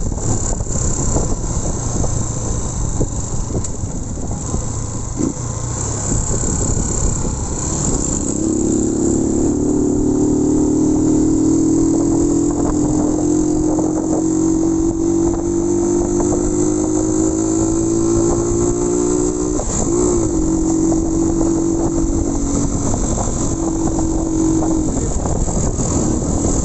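Motorcycle ride with wind and road noise, heard from on board. From about eight seconds in, the engine's note rises slowly as the bike speeds up, wavers briefly around twenty seconds, then holds steady.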